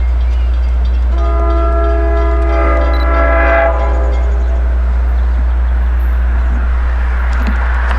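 Diesel locomotive air horn on an arriving Long Island Rail Road train (DM30AC leading) sounding one long blast of about two and a half seconds, starting about a second in. A steady low rumble from the approaching train runs underneath.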